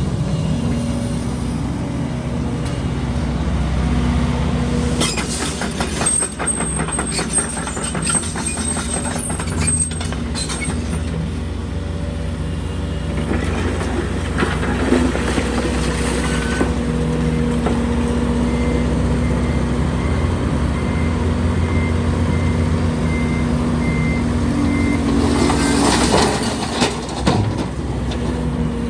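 Heavy diesel construction machinery, an excavator and dump trucks, running steadily. A run of knocks and clatters comes a few seconds in, a series of evenly spaced beeps like a reversing alarm sounds in the second half, and a burst of hissing comes near the end.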